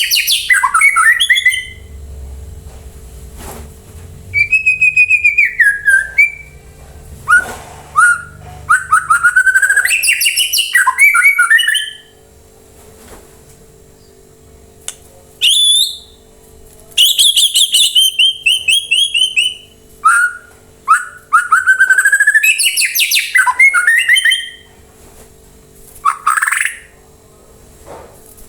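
White-rumped shama (murai batu) singing loud, varied song phrases of rapid whistles, trills and rising and falling notes, in bursts of a few seconds separated by short pauses.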